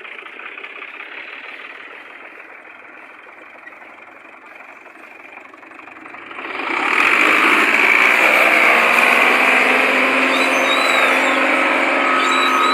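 Tractor engine running steadily, then growing much louder about halfway through and staying loud, with a faint high whine near the end.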